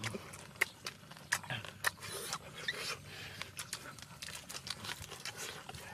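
People chewing and smacking their lips while eating roasted pork and raw leaves: a run of sharp, irregular clicks and crunches.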